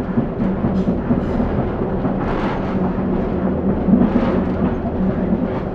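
Inside a Class 142 Pacer diesel railbus on the move: a steady engine drone under the rumble of the wheels on the track, swelling briefly about two and a half and four seconds in.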